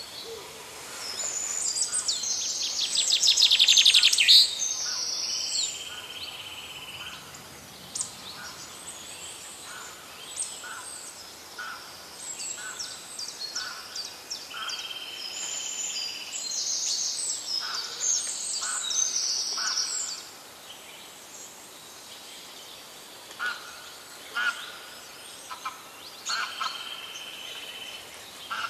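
Birds singing and calling, with repeated whistled phrases and chirps, and a fast, loud trill about three seconds in.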